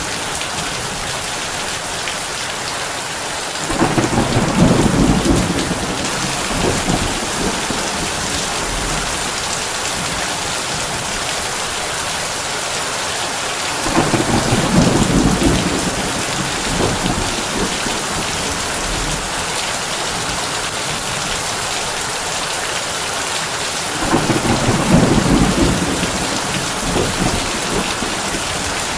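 Heavy rain on a tin roof as a steady hiss, with three low thunder rumbles of two or three seconds each, evenly spaced about ten seconds apart.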